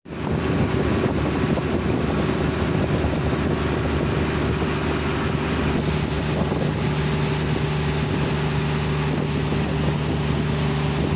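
A boat's engine running steadily underway, a constant hum, with wind buffeting the microphone.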